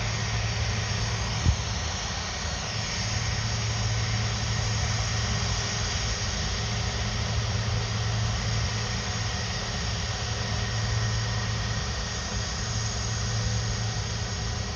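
Airbus A330 jet engines running steadily at idle: an even rush of jet noise with a low steady hum. One short sharp click about a second and a half in.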